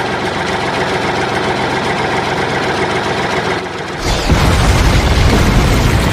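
Tractor engine sound effect running steadily, growing louder and deeper about four seconds in, then cutting off abruptly.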